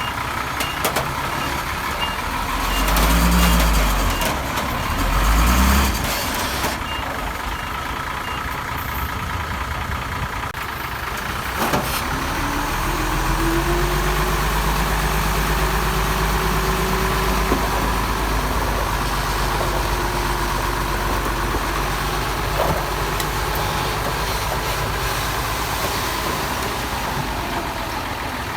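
Heavy diesel earthmoving machinery, dump trucks and a bulldozer, working with a reversing alarm beeping about twice a second until about a third of the way through. The engines surge twice early on, there is a sharp knock, and then an engine revs up and holds under load.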